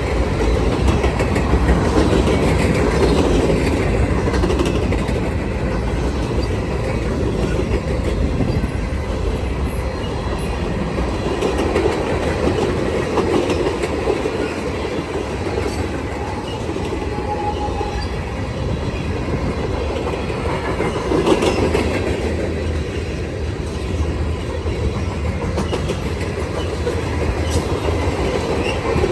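Freight cars of a long freight train rolling past at track side, with a steady rumble and the wheels clicking over rail joints.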